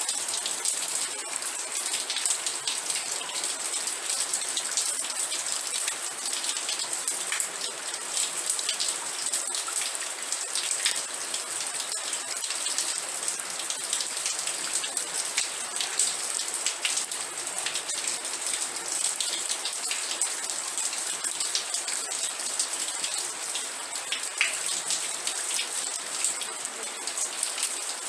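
Steady rain, an even hiss with a dense patter of individual drops ticking through it.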